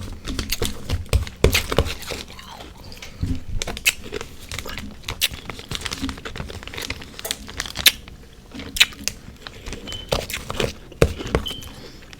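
Close-up chewing and crunching of refrozen freezer frost: irregular crisp crunches and bites, a few to several a second, with softer chewing between them.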